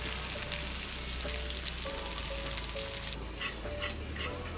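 Ginger and garlic sizzling in hot oil in a pan, a steady hiss that thins out about three seconds in, with a few light clicks after that.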